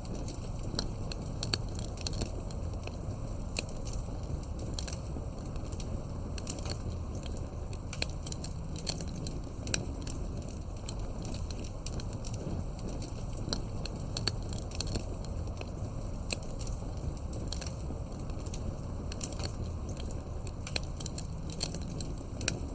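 Campfire burning, with a steady low rumble and frequent irregular sharp crackles and pops of burning wood.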